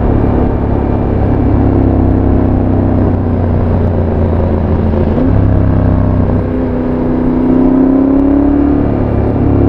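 Yamaha Tracer 7's 689 cc parallel-twin engine running through a full GPR exhaust with dB-killer while riding. It holds a steady note, changes abruptly about five seconds in, then rises and falls.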